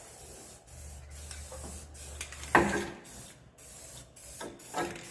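Aerosol spray paint hissing in short spurts, with a single sharp knock about two and a half seconds in.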